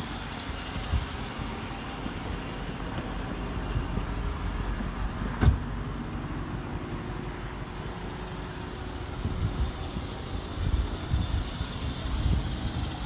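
A motor vehicle's engine running with a steady low rumble. There is a single sharp knock about five and a half seconds in, and some uneven low thumps near the end.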